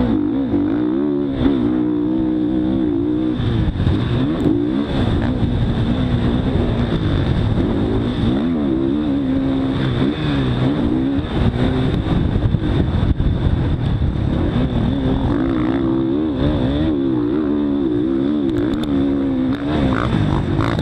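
Motocross dirt bike engine heard close up from the bike, its pitch climbing and dropping over and over as the throttle is opened and shut.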